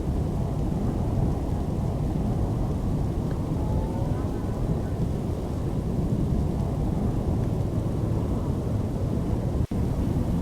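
Steady low rumbling noise of storm wind blowing over the microphone, which cuts out for an instant near the end.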